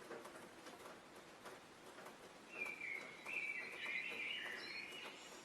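A songbird singing one warbling phrase of about two and a half seconds, starting about halfway through, over a light outdoor background with faint scattered ticks.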